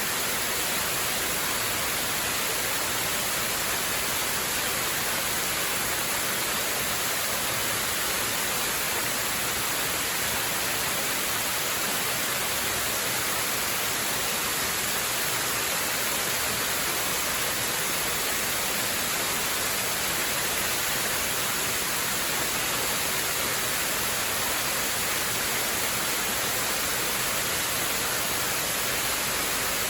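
Waterfall: steady rushing water, an even hiss that stays the same throughout, strongest in the high range.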